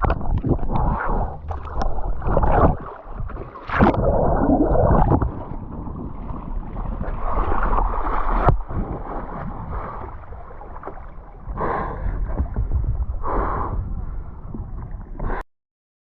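River water rushing and churning around a whitewater kayak held in a stern stall, with a heavy low rumble and several louder surges. The sound cuts off suddenly near the end.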